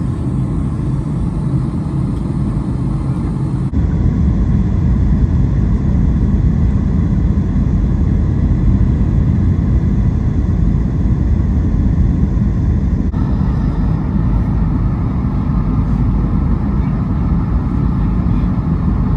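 Steady rumble of jet engines and rushing air inside the cabin of a Southwest Airlines Boeing 737 on final approach. It gets louder about four seconds in.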